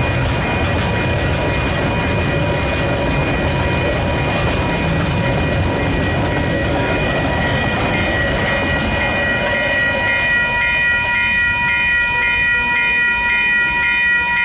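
A train hauled by DL-class diesel-electric locomotives passing close by, its wagons rumbling and clacking over the rail joints. The low rumble eases after about nine seconds, while steady high-pitched whining tones carry on and grow stronger.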